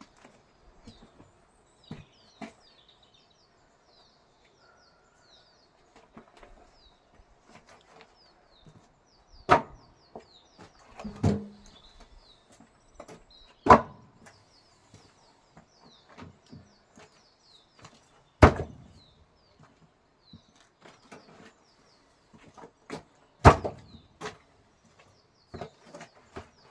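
Pieces of firewood knocking together as they are gathered and thrown onto a pile: four loud wooden knocks a few seconds apart, with lighter clacks between. Birds chirp faintly throughout.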